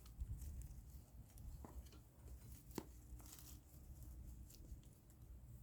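Near silence with a few faint, scattered clicks and rustles, of the kind made by hands working plants into potting soil.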